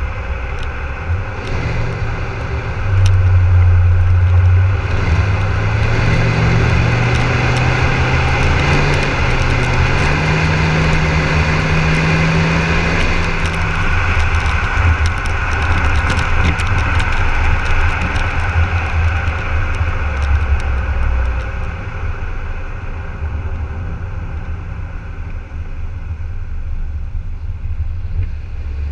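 Volvo XC60 D5 diesel engine through a custom exhaust, rising steadily in pitch for about ten seconds as the car accelerates, then running more steadily.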